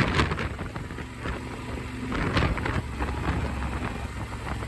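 Wind buffeting and rushing over a helmet-mounted phone's microphone on a moving motorcycle, in irregular gusts, with the engine's low steady drone underneath.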